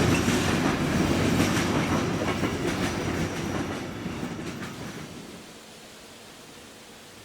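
A train running past on the track, its wheels clicking over rail joints, the sound fading away and gone about five seconds in.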